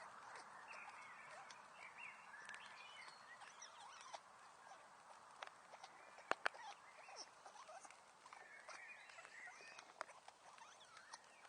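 Wood fire crackling faintly, with scattered small pops and two sharp pops in quick succession about six seconds in.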